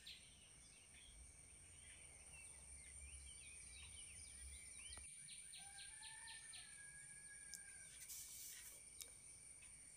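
Near silence: faint background tone with distant bird chirps and short whistles.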